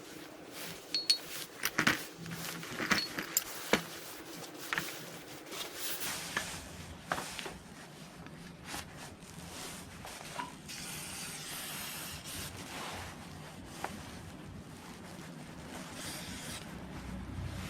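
Metal clinks and knocks of hand tools and small parts being handled, several sharp and ringing in the first few seconds, with a low steady rumble coming in about six seconds in and growing near the end.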